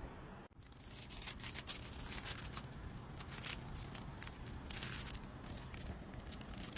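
Irregular scratching and rustling with scattered sharp clicks, the handling noise of material being worked by hand.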